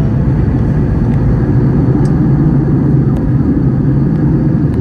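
Airliner cabin noise: a steady low roar of jet engines and rushing air, with a few faint clicks.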